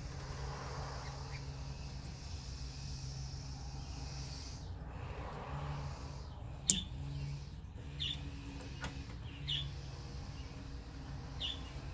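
Handling noise as the wiring connector is plugged in inside a car door, with one sharp click about seven seconds in. Faint short chirps come several times near the end over a low steady hum.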